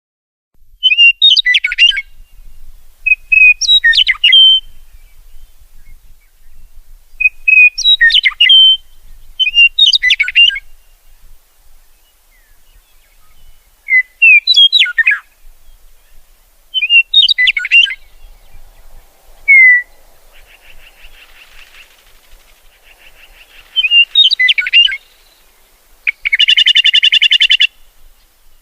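Songbird song: short chirping phrases of about a second, repeated every two to three seconds, with a faint buzzy trill in the middle and a loud, rapid buzzy trill near the end.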